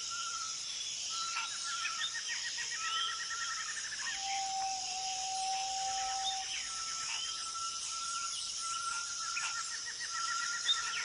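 Tropical rainforest ambience: a steady high insect drone under many overlapping bird calls, with repeated trills and long held whistled notes.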